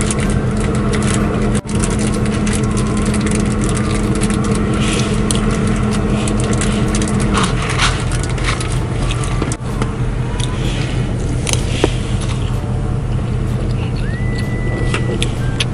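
Steady drone of a moving truck's engine and road noise heard inside the cab, its low hum stepping down in pitch about halfway through. Scattered light clicks and taps sound over it.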